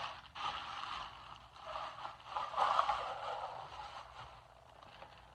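Plastic packaging rustling and scraping as new vacuum parts are unwrapped and handled, in uneven bursts that die away near the end.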